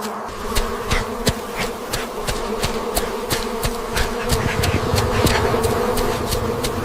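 Insects buzzing in a steady drone, with sharp clicks repeating about three times a second.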